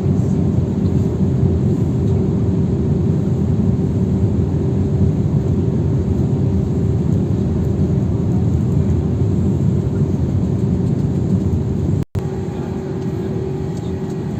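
Steady roar of a jet airliner in flight heard from inside the cabin, engine and airflow noise with a constant hum running through it. The sound cuts out for an instant about twelve seconds in and comes back slightly quieter.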